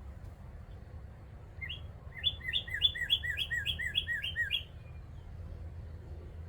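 A bird calling a quick run of about ten sharp, repeated notes, roughly three a second, starting about a second and a half in and stopping after about three seconds. These are agitated calls raised at a black rat snake in the tree near a nest of baby birds. A steady low hum runs underneath.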